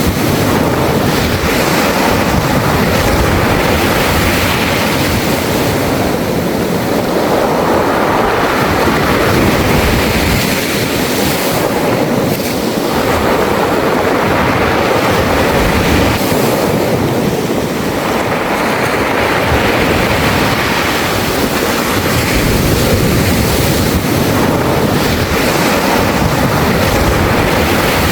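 Sea waves washing up a beach of round, smooth pebbles (mongdol). The surf swells and falls back every few seconds, and the stones rattle and hiss in the wash.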